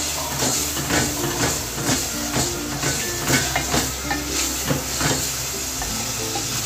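Spiced minced meat (keema) sizzling as it fries on high heat in an aluminium pot, its released water cooking off. A spatula stirs through it and scrapes against the pot about twice a second.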